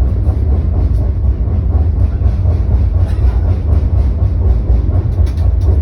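Steady low rumble of a moving vehicle, with a few faint clicks near the end.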